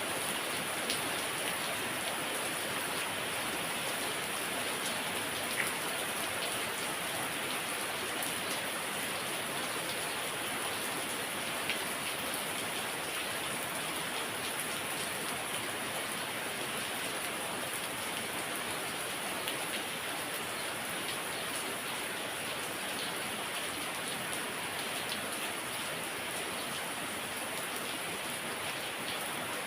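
Heavy rain falling steadily, a dense even hiss with a few louder drops now and then.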